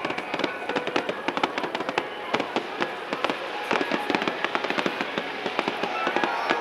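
Aerial fireworks crackling: a dense, irregular run of sharp pops and cracks, many each second.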